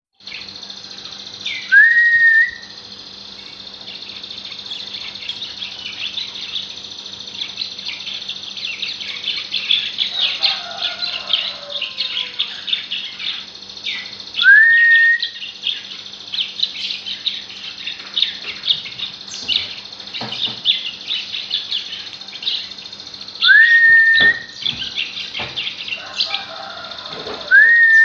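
Songbird calling with rapid high chirps throughout, broken four times by a louder whistle that rises and then holds level for about a second.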